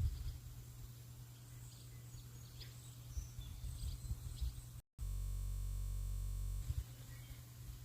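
Faint short bird chirps over a low rumble. About five seconds in the sound drops out for a moment, then a flat, unchanging hum holds for about a second and a half before the bird sounds resume, like an editing glitch.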